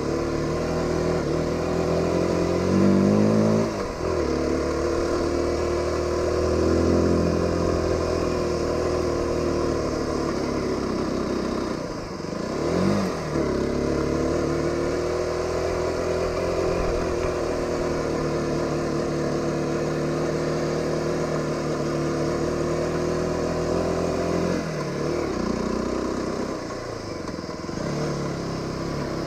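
Aprilia RX125 single-cylinder motorcycle engine running under way, its note climbing and falling with the throttle, with sharp drops in pitch about four, twelve and twenty-five seconds in.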